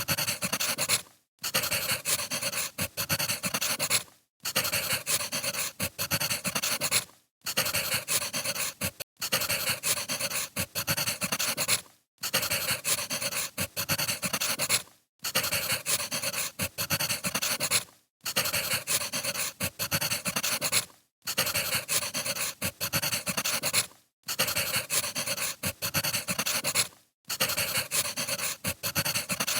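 Wood fire crackling, a dense run of small pops and snaps over a hiss. It comes in stretches of about three seconds, each cut off by a brief silent gap.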